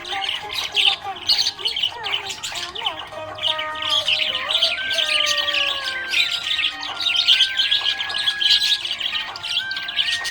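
Budgerigars chirping in a fast, continuous stream of short high chirps, over background music with slow held notes.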